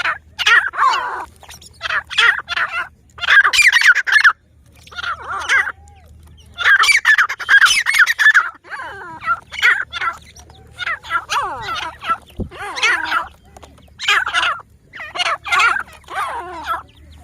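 Grey francolin calling, its repeated ka-tee-tar phrases coming in quick clusters of short, sweeping notes, with a steady low hum underneath.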